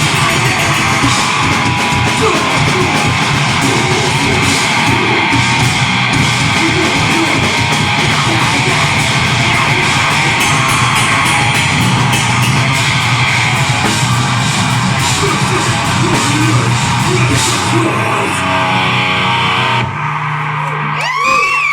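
A deathgrind band playing live at full volume, with heavily distorted guitars, bass and fast drums under yelled vocals. The song stops about 20 s in, leaving a steady low amp hum and a short rising-and-falling high tone.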